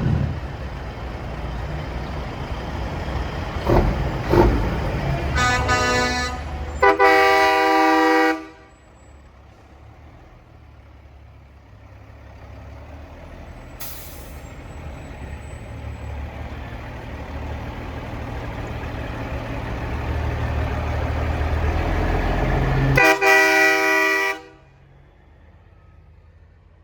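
Semi-truck air horns blasting over diesel engine rumble: a short blast about five seconds in, a longer one around seven seconds, and another near the end. Between the horns the engine rumble grows louder as a truck approaches, with a brief hiss in the middle.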